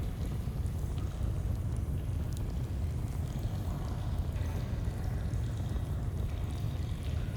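Stream flowing with a steady low rush, and a campfire crackling faintly with scattered small pops over it.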